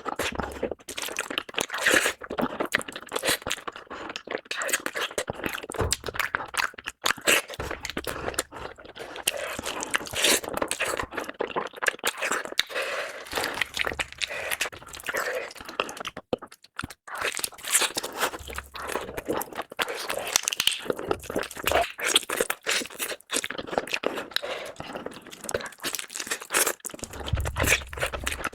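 Close-miked eating: steady, irregular chewing and crunching of food, with wet mouth clicks throughout.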